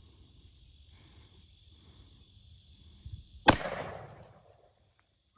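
A single shot from a Smith & Wesson 500 revolver in .500 S&W Magnum, about three and a half seconds in, followed by about a second of echo fading out.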